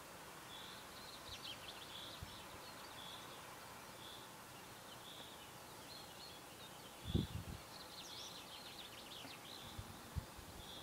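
Faint birdsong: a short high call repeated about once a second, with two brief bursts of quicker song notes, over a soft steady hiss. A brief low thump a little after the middle is the loudest sound.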